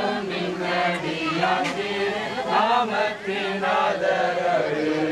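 Congregation praying aloud together: many voices overlapping in one continuous stream, with no single speaker standing out.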